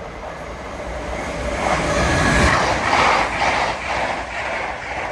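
Two coupled Class 387 electric multiple units passing through the station. The rush and rumble of wheels on rail builds to its loudest about halfway, with an even rhythmic beating of the bogies over the rails.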